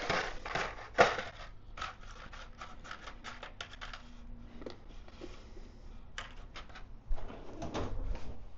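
Small, irregular plastic clicks and scrapes of fuses being handled in a motorcycle's fuse box, with one sharper click about a second in and a low handling rumble near the end.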